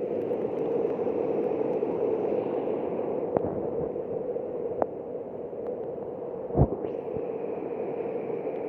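Heavy rain pouring down in a steady hiss, with a few light knocks and one louder dull thump about two-thirds of the way through.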